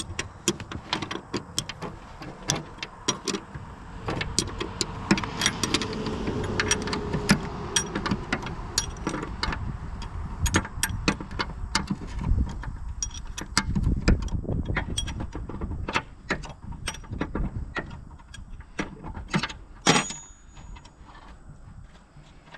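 Hand tools and bolts clinking and clicking against the steel mower deck and bearing, many short metallic knocks in an uneven run, as bolts are taken out of a finish mower's blade bearing.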